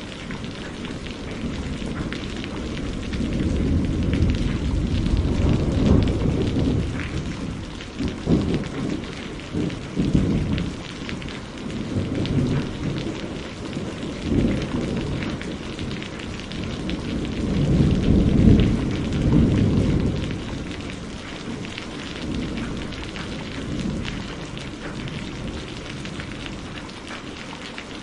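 Rain falling steadily in a continuous hiss, with low rolling rumbles of thunder that swell and fade, the strongest about two-thirds of the way through.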